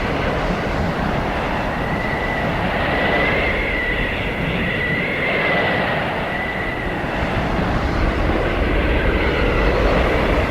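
Blizzard wind blowing hard and steadily, rushing and swelling, with a thin high whistle that wavers up and down in pitch.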